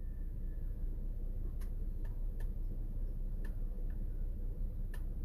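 Low steady rumble of a vehicle heard from inside its cabin, with about six sharp, irregularly spaced clicks.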